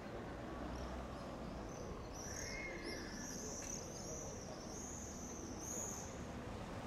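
A small bird singing, a quick run of high, arching chirps lasting a few seconds, over a faint steady hum of town background noise.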